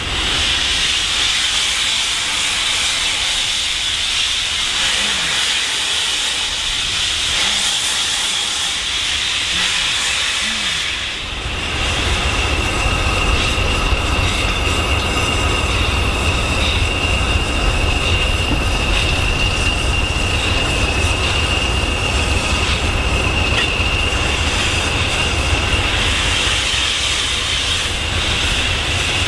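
Steam hissing from LNER B1 4-6-0 61306 Mayflower as the train moves slowly. About eleven seconds in, a deep engine rumble with a steady high whine joins, from the Class 20 diesels hauling it, and carries on.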